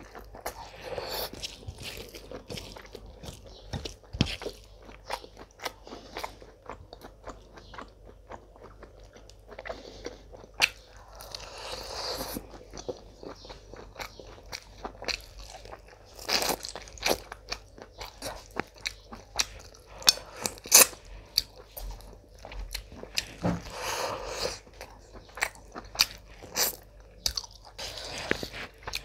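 Close-miked chewing and mouth sounds of a person eating spiced mutton and rice by hand, with many sharp clicks and smacks.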